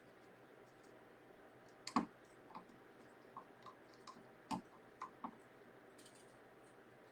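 Scissors snipping, trimming excess jean fabric: a scattered series of about eight small sharp clicks over a few seconds, the loudest about two seconds in and another near the middle.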